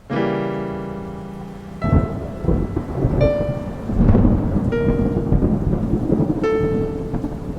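A rich low chord sounds at the start, then a rumble of thunder with rain sets in. Over it, four single held notes sound one after another, each a little lower in pitch.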